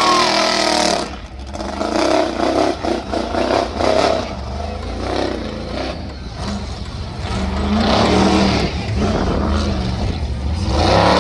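Monster truck engine revving, its pitch rising and falling, with some clatter.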